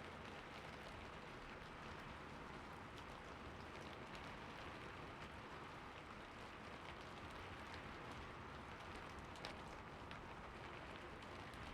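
Soft rain falling steadily: a continuous hiss with scattered drops ticking through it.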